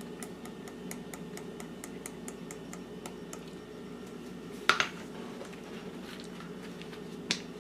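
A spoon clinking sharply against a bowl twice, about five and seven seconds in, over a steady low hum and faint quick ticking.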